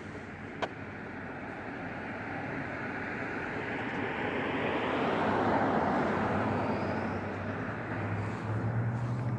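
A motor vehicle passing on the road: traffic noise swells to a peak about halfway through and then fades. A low engine hum grows stronger near the end, and there is one short click about half a second in.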